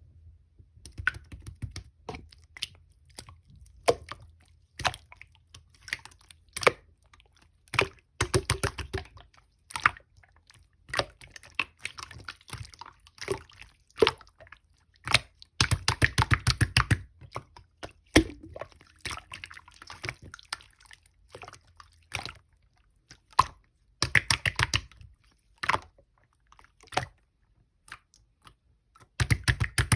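Light-pink marbled shaving-foam slime being squished and pressed by hand: sticky clicks and small bubble pops, with several bursts of rapid crackling clicks.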